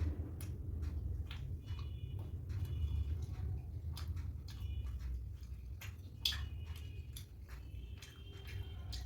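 A person eating luchi (poori) with curry close to the microphone: irregular chewing clicks and mouth sounds. Short high-pitched chirps recur in the background over a low steady hum.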